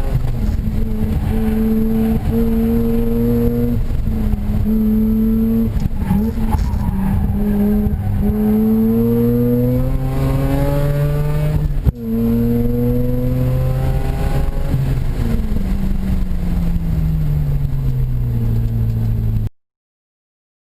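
Mazda RX-8's two-rotor Renesis rotary engine, with aftermarket intake and header-back exhaust, pulling hard through the gears from inside the car: the revs climb and drop back at each shift, with a sharp break about two-thirds of the way in. Near the end the revs fall steadily as the car slows, and the sound cuts off suddenly.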